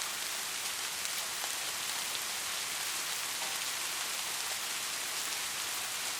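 Steady rain falling: an even hiss of drops, with a few sharper single drop ticks now and then.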